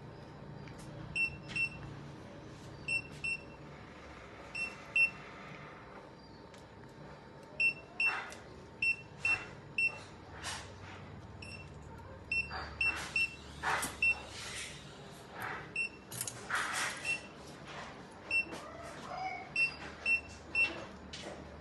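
Electronic equipment giving short, high beeps, often in pairs with uneven gaps, about one or two a second. Scattered clinks and rustles of handling sound between them, busiest in the middle stretch.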